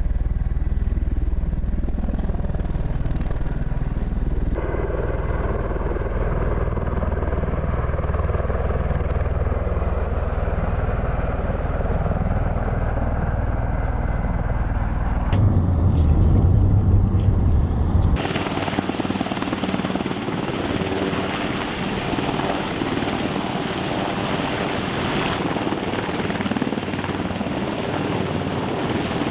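Military helicopter running, a steady turbine and rotor roar, heard across several cut shots that change its tone abruptly, deep rumble first and a brighter, fuller roar in the later part.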